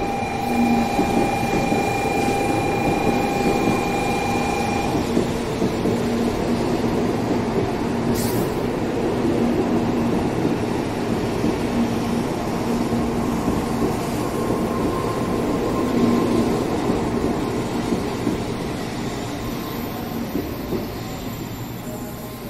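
Sanyo Shinkansen train running along the platform at Fukuyama Station: a loud, steady roar of wheels on rail, with a high whine over it for the first five seconds. The roar fades toward the end.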